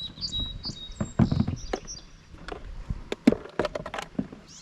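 Irregular knocks and taps from hard objects being handled, loudest about a second in and again past three seconds, with a bird giving a quick series of short high chirps in the first two seconds.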